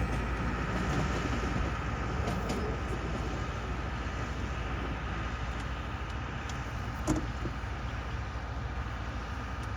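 Steady running noise of a moving vehicle: a low rumble with a constant high whine over it, and a sharp click about seven seconds in.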